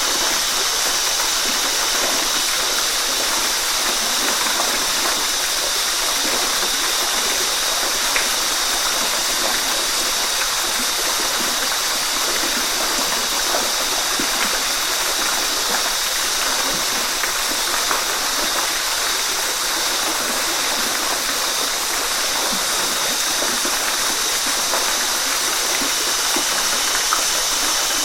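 Waterfall: a steady, unbroken rush of falling water, hissy and bright, with little low rumble.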